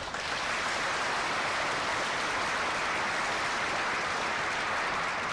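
A group of people clapping, starting suddenly and holding steady.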